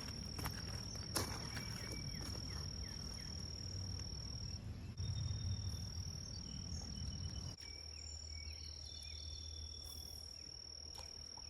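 Insects trilling in one steady, high-pitched drone, with a few sharp clicks in the first second or so.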